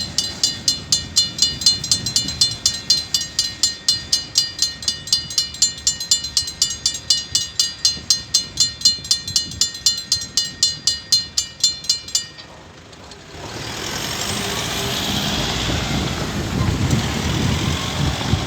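Railway level crossing alarm bells ringing rapidly, about four to five strikes a second, then stopping abruptly about twelve seconds in as the crossing clears. Road traffic noise rises a second later.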